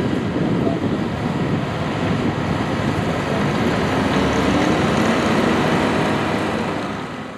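Antique farm tractor engine running hard under load during a pull, a steady dense engine sound with a slight rise in pitch partway through, fading out at the very end.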